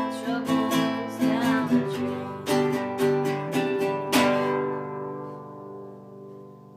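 Acoustic guitar strumming chords, ending on a last strummed chord about four seconds in that is left to ring and slowly fade.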